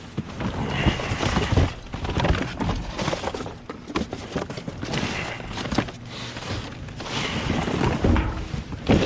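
Rummaging through trash in a dumpster: continuous crackling and rustling of plastic and cardboard, with scattered knocks and clatters as items are shifted.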